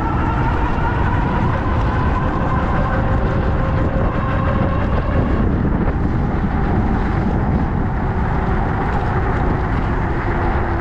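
Electric bike in motion: steady wind and road noise, with a motor whine that climbs slowly in pitch for the first five seconds or so and then fades out.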